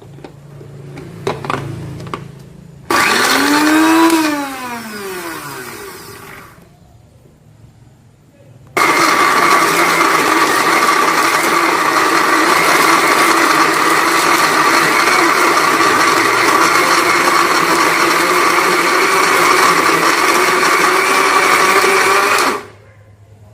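Small electric food grinder chopping raw fish into a fine paste. A short burst about three seconds in spins up and winds down, and after a pause the motor runs steadily for about fourteen seconds before cutting off near the end.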